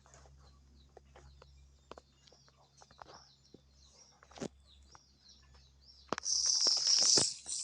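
Small birds chirping over and over in short high calls, with scattered light clicks and taps. About six seconds in, a louder burst of dense, high crackling and chirping lasts about a second and a half.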